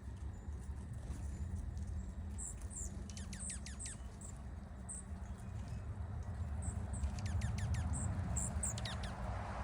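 Small wild birds chirping: short, high chirps and quick down-sweeping calls, starting about two seconds in, over a steady low rumble.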